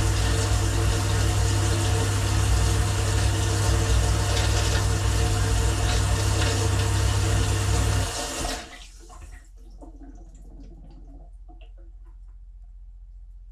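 Dishwasher running, heard from inside the tub: the pump hums steadily under the noise of spraying water. About eight seconds in the pump cuts off and the spray stops, leaving a few faint drips.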